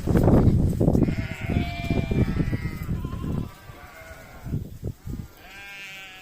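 Tashlinskaya lambs bleating: one wavering bleat about two seconds in and another near the end. Loud low rumbling noise fills the first half.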